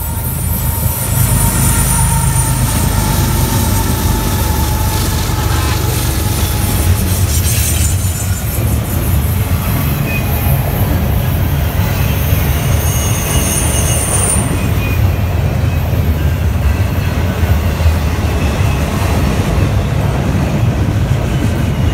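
CN intermodal freight train rolling past close by: its locomotives first, then double-stack container cars, with a steady low rumble of wheels on rail. Thin high wheel squeals come and go over the rumble.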